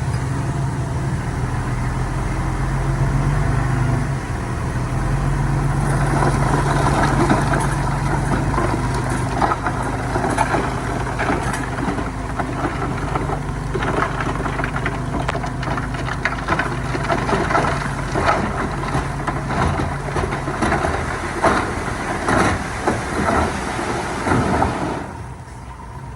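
Heavy earthmoving machine's diesel engine running steadily, its pitch shifting about four seconds in. From about six seconds in there is a dense clatter of rattles and knocks. The engine and the clatter drop away shortly before the end.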